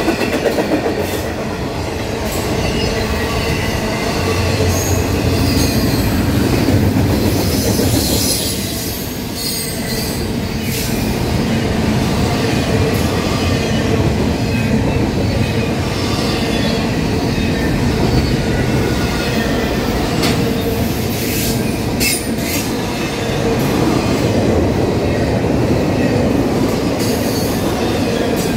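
Double-stack intermodal freight train's well cars rolling past: a steady rumble and rattle of steel wheels on rail, with occasional sharp clicks and some high wheel squeal.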